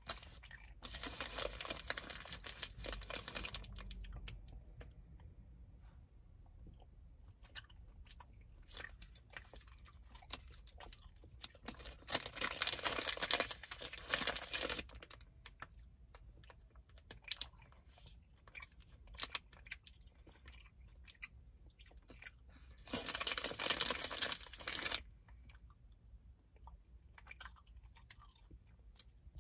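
A person chewing gummy fruit snacks, with many small mouth clicks. Three longer bursts of crinkling from the plastic snack pouch come about a second in, around the middle and a few seconds before the end.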